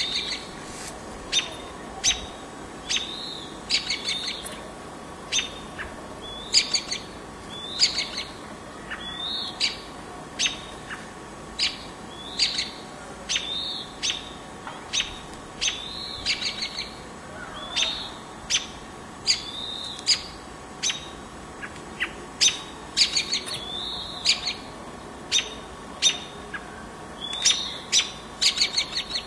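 Small birds calling: short, sharp chirps repeated about once a second, over a steady background hiss.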